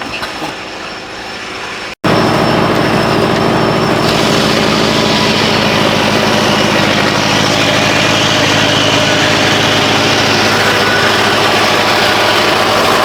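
Quiet background for about two seconds, then an engine running loud and steady that begins abruptly, with an even low hum.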